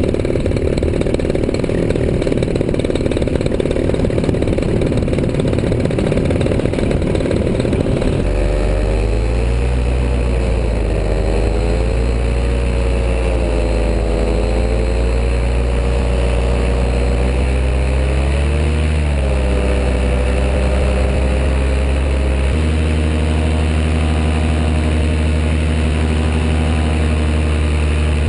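A small engine running, at first under a dense rushing noise. From about a third of the way in its pitch rises and falls in slow waves, then it settles into a steady, lower note near the end.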